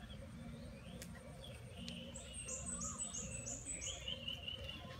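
Small birds chirping: a quick run of about six high, falling notes in the middle, with other shorter calls and a warble around it.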